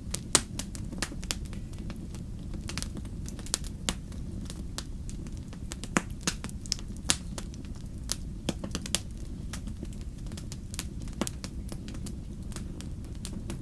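Wood fire crackling in a fireplace: irregular sharp pops and snaps, a few louder than the rest, over a steady low rumble of the burning.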